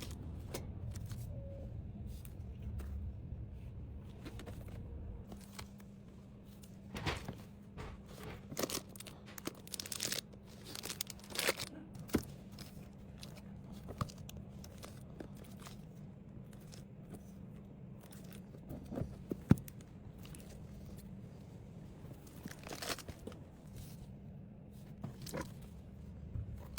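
Plastic packaging being handled: crinkling and tearing rustles in short bouts, with scattered sharp clicks and taps over a faint steady hum.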